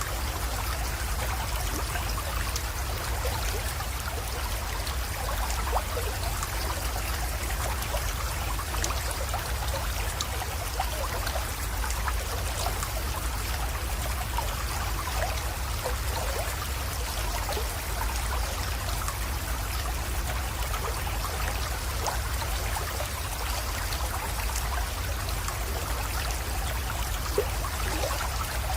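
Small creek water flowing and trickling steadily, with many small splashes and a steady low rumble underneath.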